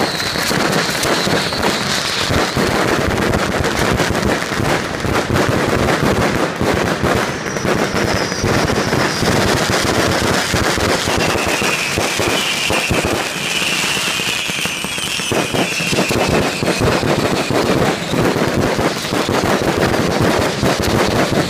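Fireworks display going off in a dense, continuous barrage of bangs and crackles, with high whistling tones rising over it near the start, about eight seconds in, and again for a few seconds around the middle.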